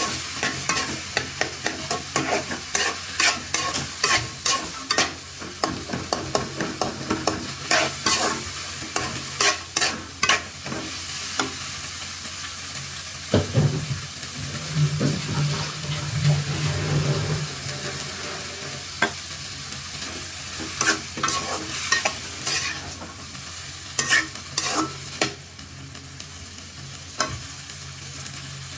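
A spoon stirring and scraping in a pan of frying chickpeas, clicking against the pan again and again over a steady sizzle. The clicks thin out in the second half, and a low hum comes in for a few seconds midway.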